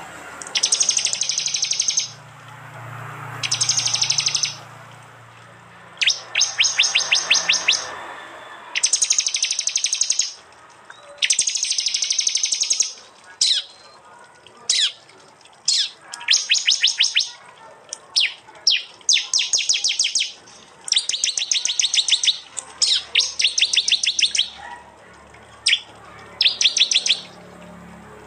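Small songbirds, prinias (prenjak) among them, giving loud 'tembakan' calls: high, rapid clicking trill bursts about a second long, repeated with short gaps. From about halfway, short sharp single chirps and briefer trills are mixed in.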